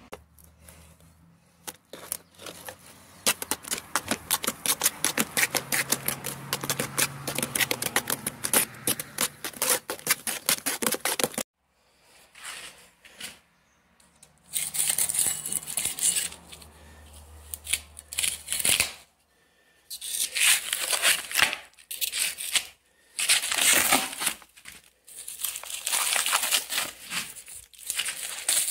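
Mortar being mixed by hand with a trowel, in quick repeated scraping and knocking strokes, then longer scraping stretches broken by short pauses.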